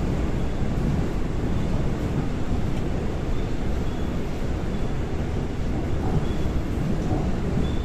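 Seoul Line 4 4000-series electric train (Daewoo–Alstom GTO VVVF) running between stations, heard from on board: a steady rumble of wheels on rails. Faint, short high tones come through now and then.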